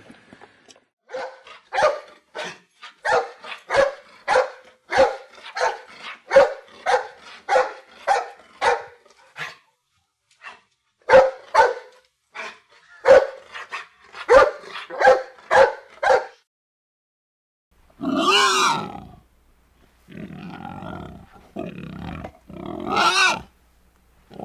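A dog barking over and over in quick runs, about three barks a second, with a short break about ten seconds in. For the last six seconds, wild boar give several longer, harsh calls.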